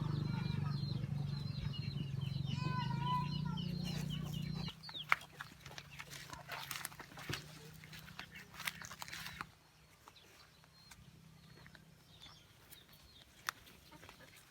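Chickens clucking and chirping over a steady low mechanical hum. The hum drops in level about five seconds in and dies away near ten seconds, leaving scattered clicks and knocks.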